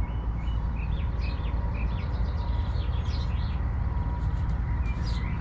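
Small birds chirping, many short calls one after another, over a steady low rumble.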